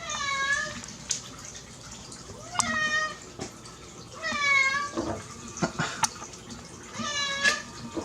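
Sphynx cat meowing four times, each call about half a second long and rising then falling in pitch, with a few small knocks between calls.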